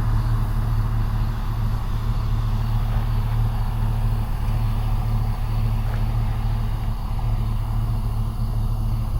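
Steady engine hum and road noise heard from inside a moving car.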